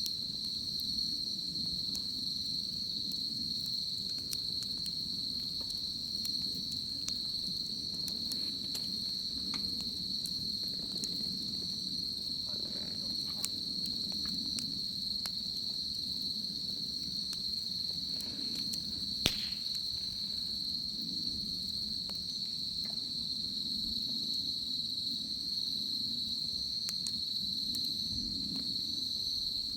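Wood bonfire crackling with scattered small pops and one sharper crack about two-thirds of the way through, over a steady high insect trill.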